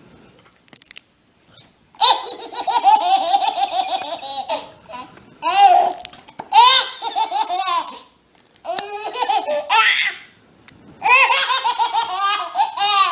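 A baby laughing hard: about five bouts of rapid, high-pitched laughter with short breaks between them, starting about two seconds in.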